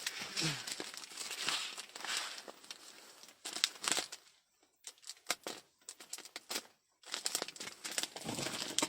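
Plastic packaging crinkling and rustling as it is handled, in irregular bursts with two brief quiet pauses.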